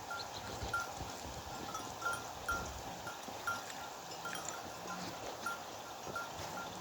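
Small bells on grazing sheep and goats clinking irregularly, about two light strikes a second.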